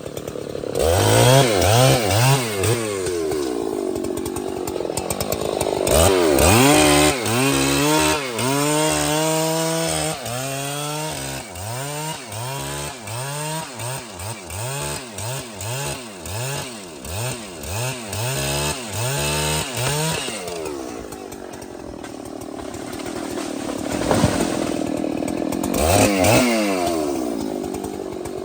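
A large two-stroke chainsaw running hard in timber, its engine revving up and down again and again, about one to two times a second through the middle, with steadier stretches at full speed near the start and the end.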